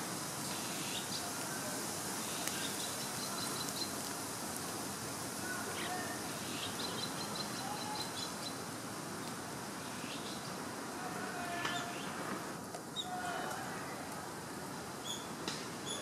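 Birds chirping faintly, with a few quick runs of high chirps and some short lower calls, over a steady outdoor background hiss.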